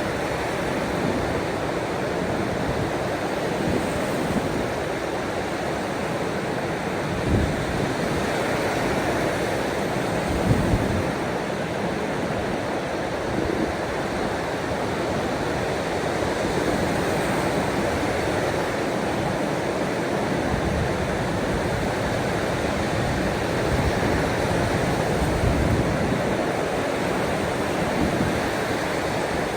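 Steady wash of ocean waves, an even rushing noise with a few brief low thuds about 7 and 10 seconds in.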